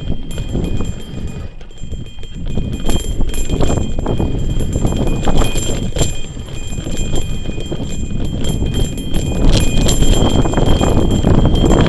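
Bicycle rattling and clattering over a rough off-road trail, heard through an action camera: a dense, uneven run of knocks and clicks over a low rumble that grows louder near the end.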